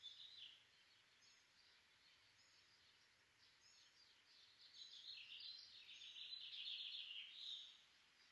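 Faint birdsong: small birds chirping in quick short notes, getting busier and louder past the middle and dropping back near the end.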